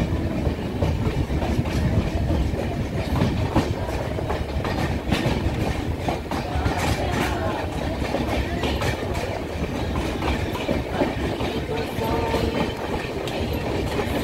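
Passenger train running along the rails, heard from inside the carriage: a steady low rumble of the wheels with irregular clacks as they pass over rail joints.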